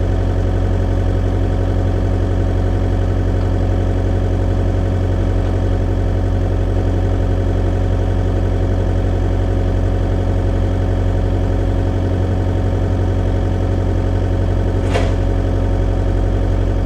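A machine's engine running steadily at constant speed, likely equipment lifting a sawmill head onto its rails. About fifteen seconds in, a brief sharp metallic sound cuts through.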